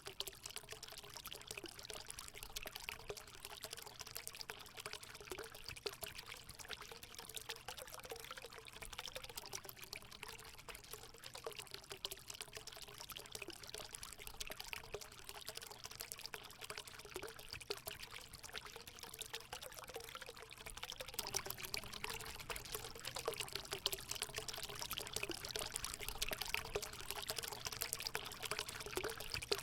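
Water running and splashing into a hot spring pool, a steady pouring trickle with gurgling, a little louder about two-thirds of the way through.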